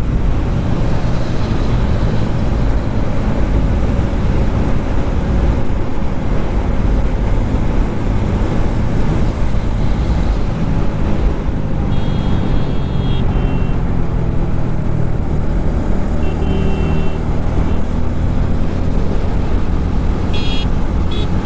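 Motorcycle riding at highway speed: a steady roar of wind, road and engine noise, with short horn toots about twelve and sixteen seconds in.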